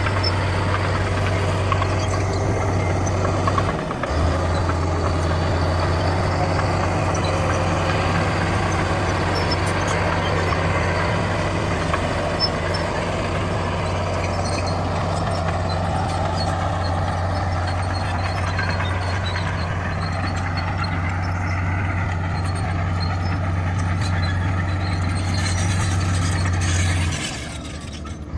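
Bulldozer's heavy diesel engine running steadily, with faint scattered metallic squeaks. The sound dips briefly about four seconds in and drops away just before the end.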